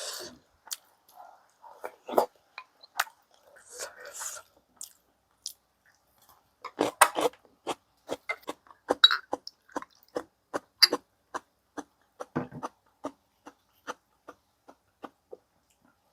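A person chewing food close to the microphone: many short, wet mouth clicks and smacks, coming thickest in the middle.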